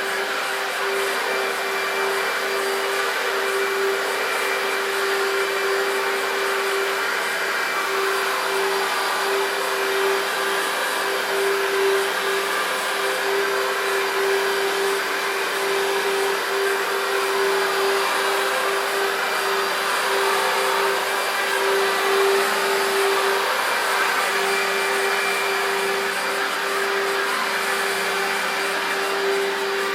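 Electrolux Contour Z1501 upright vacuum cleaner running steadily on its 1300 W motor: an even, unchanging tone over a rush of air.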